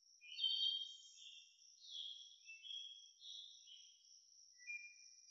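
A songbird singing a run of short, varied high notes, over a steady high-pitched drone of insects from the woods.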